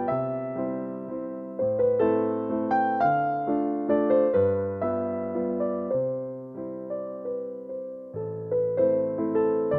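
Slow, gentle solo piano music, single notes over sustained chords, each note struck and fading away.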